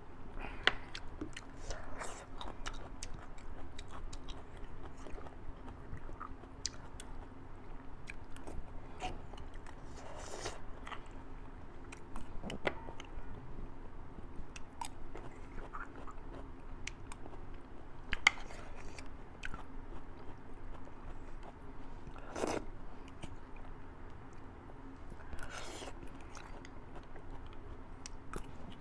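Close-miked chewing and biting of fatty beef bone marrow, with many short wet mouth clicks and a few louder, longer mouth sounds spread through.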